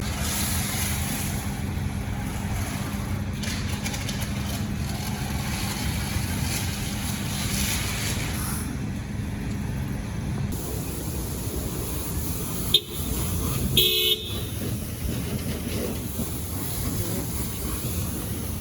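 Steady street traffic noise with a sharp click about thirteen seconds in, followed at once by a short car horn toot.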